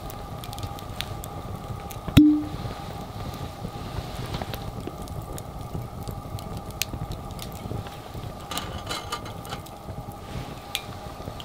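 Wood campfire crackling with scattered small pops over a faint steady hum. About two seconds in there is one sharp metallic clank that rings briefly.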